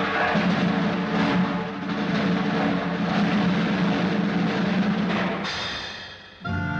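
Cartoon orchestral score with pounding timpani and drums. It thins and fades away near the end.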